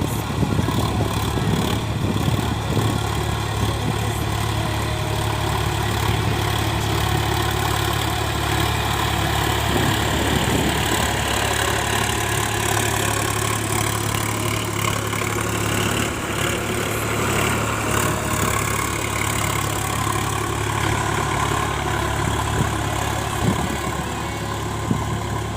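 Sonalika RX 745 tractor's diesel engine running steadily under load, driving a rotavator.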